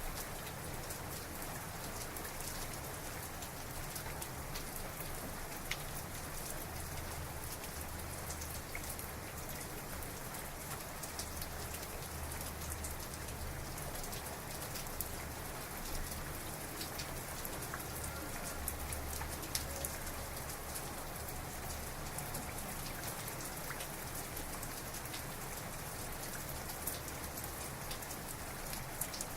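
Heavy rain falling steadily, a dense even hiss scattered with many sharp individual drop hits.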